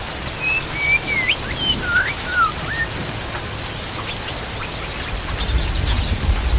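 White-rumped shama (murai batu) singing: a run of clear whistled notes, some sliding up and some down, followed by quick high chips, with a low rumble near the end.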